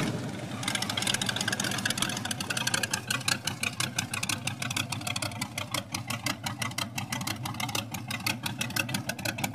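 A car engine idling, with a rapid, uneven run of exhaust beats.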